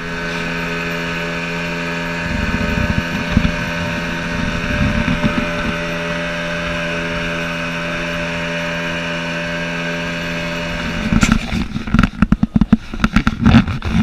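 An engine running at a steady speed, with an even, unchanging hum. About eleven seconds in, the steady hum gives way to loud, irregular rattling and buffeting noise.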